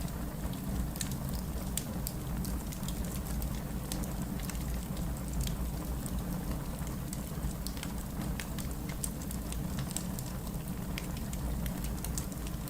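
Steady rain with a low rumble under it, mixed with a wood fire in a fireplace crackling in frequent, irregular sharp pops.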